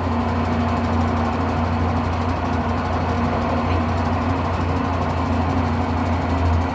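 Electrolux LM08 8 kg washing machine spinning a load, a steady motor-and-drum hum. The machine runs unbalanced because its suspension springs are broken.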